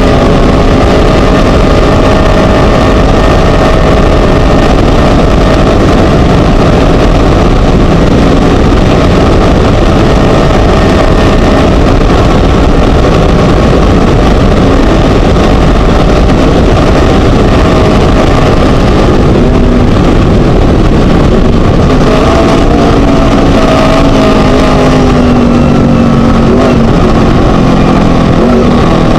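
Onboard sound of a Chenowth DR2 Class 1 desert race buggy at speed: its Scat V4 engine running hard under a loud, distorted roar. The engine's pitch dips and climbs again about three-quarters of the way through.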